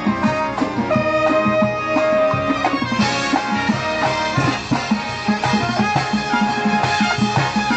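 Live college band with brass horns and drums playing an upbeat tune to a steady beat; the sound fills out with more horns about three seconds in.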